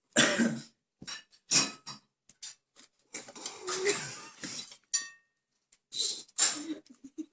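Cutlery and plates clinking and clattering in short, scattered knocks, with a brief ringing clink about five seconds in.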